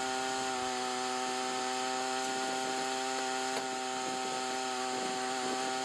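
Sawmill running steadily as it cuts through a maple cant, a constant humming tone over even sawing noise.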